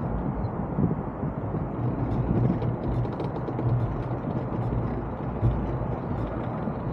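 Steady low rumble of wind and rushing water aboard a sailboat under way in gusty wind, with faint scattered splashes and ticks.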